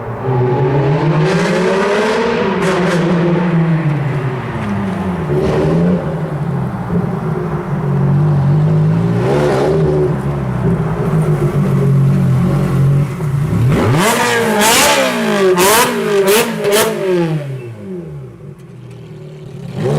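Ferrari V8 engine revving through its exhaust, the pitch climbing and falling in long revs, then a run of quick throttle blips with sharp cracks from about 14 to 17 seconds before settling back to idle near the end.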